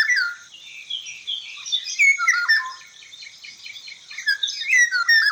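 Oriole singing: a quick run of varied whistled and chattering notes, with louder phrases at the start, about two seconds in, and near the end.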